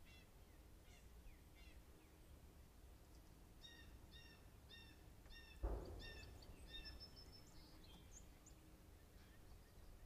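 A bird calling a run of short, evenly spaced notes, about two a second, from about three and a half seconds in to about seven seconds, after fainter quick chirps near the start. A single thump about five and a half seconds in is the loudest sound.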